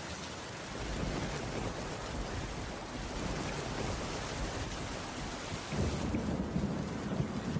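Steady rain falling on a wooden cabin roof. A low rumble swells about six seconds in.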